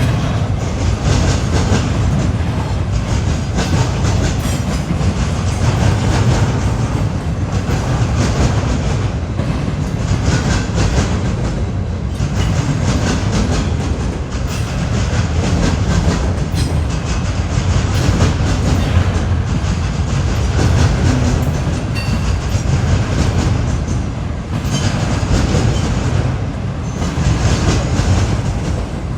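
A train's cars rolling past steadily and loudly, their wheels clicking over the rail joints.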